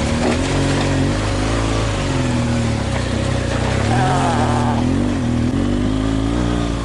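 BMW R1200GS boxer-twin engine pulling at low revs over rough ground, its note rising and falling again and again with the throttle, over a steady rush of noise.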